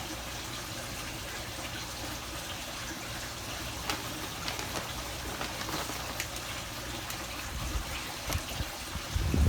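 Steady hiss of running or trickling water, with scattered light ticks. A low rumble builds near the end.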